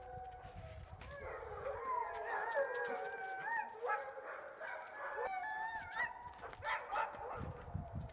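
Several Alaskan malamutes howling together, a chorus of long overlapping howls that waver and glide up and down in pitch.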